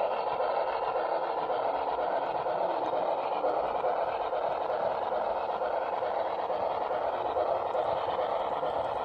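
HO scale model train running steadily along the layout's track, a continuous even whirring rumble of wheels on rail and motor.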